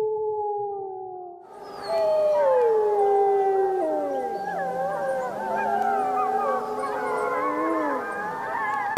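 A wolf's long, level howl fades out, and about a second and a half in a chorus of several wolves howling together takes over, their overlapping howls sliding up and down in pitch.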